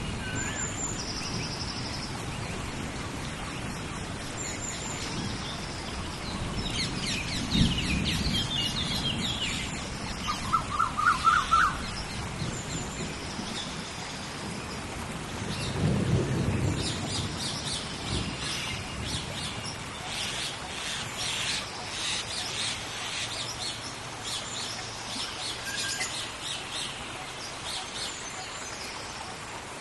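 Steady heavy rain with thunder rumbling twice, about 7 seconds and about 16 seconds in. Birds call over the rain, and a quick run of four or five chirps about 11 seconds in is the loudest sound.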